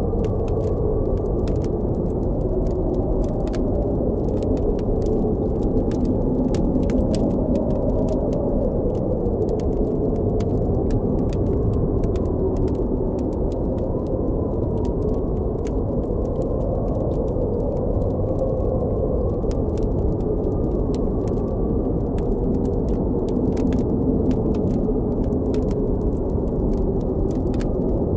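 Blizzard wind blowing steadily, with a faint whistle that slowly wavers in pitch, over a campfire crackling with frequent small sharp pops.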